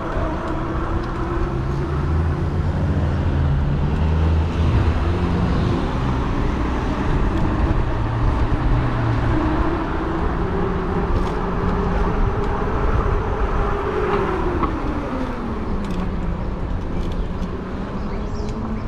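Riding noise of a fat-tire e-bike under way: a steady low rush of wind and road noise with a humming whine that slowly climbs in pitch, then drops off about fifteen seconds in.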